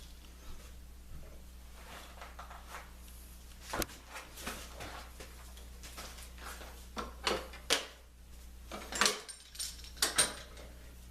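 Scattered clicks and knocks of tools and wood being handled at a workbench, with a few sharper knocks in the second half, over a steady low hum.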